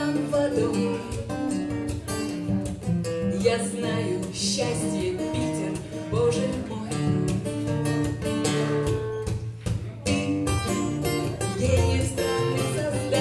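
Live acoustic guitars strumming and picking the accompaniment of a song, with a voice singing over them.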